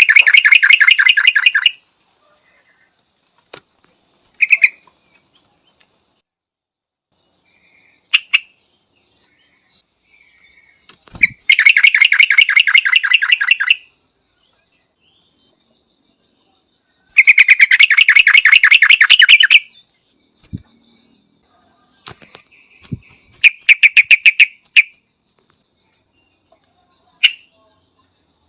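Yellow-vented bulbul calling: four bursts of fast, rapidly repeated chattering notes, each about two seconds long, with short single notes in the gaps between them.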